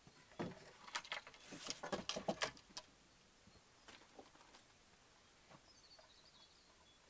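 A quick run of light clicks and knocks, like small objects being handled, starting about half a second in and lasting a couple of seconds, then a few scattered faint clicks. A faint high chirp near the end.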